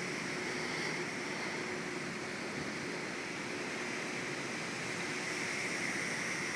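Steady heavy typhoon rain falling, a continuous even hiss with a faint low hum underneath.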